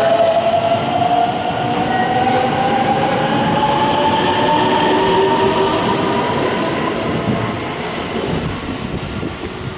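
Electric train accelerating, its traction motors giving a whine that rises slowly in pitch over the rumble and clatter of the wheels on the rails. It fades toward the end as the train moves away.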